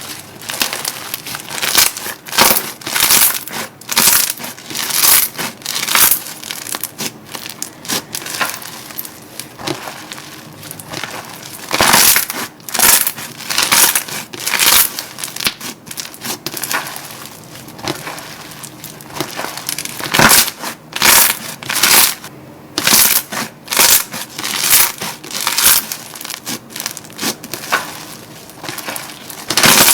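Slime being squeezed, pressed and pulled by hand, giving a continuous run of short crackling, squishing bursts, several each second.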